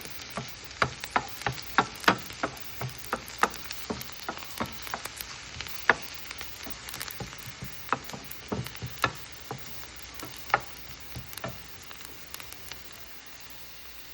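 Food frying in hot oil in a pan: a steady sizzle with sharp, irregular crackles and pops that thin out near the end.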